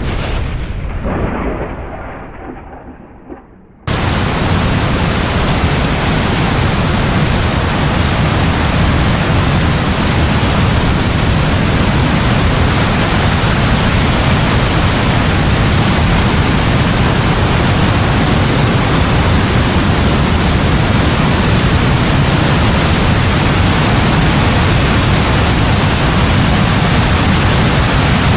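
A thunderclap rumbles away over the first few seconds. About four seconds in, heavy rain cuts in suddenly as a loud, steady hiss that holds without change.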